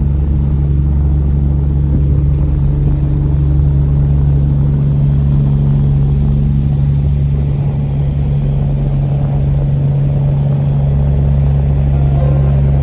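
River tourist boat's engine running steadily underway, a loud, even low hum.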